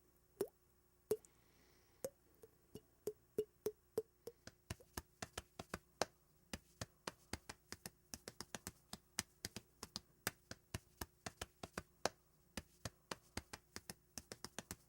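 Sharp, dry taps, about one a second at first, then quickening into a rapid, irregular run of several a second.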